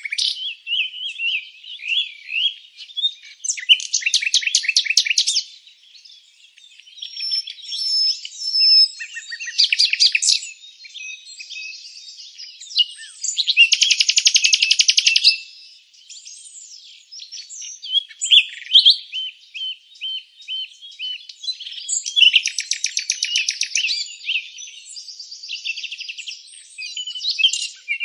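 Several songbirds singing at once: short chirps and whistled notes overlapping, with a rapid trill coming in every few seconds.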